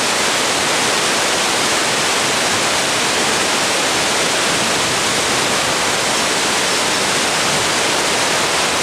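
Steady, loud rush of fast-flowing mountain river water, even and unbroken throughout.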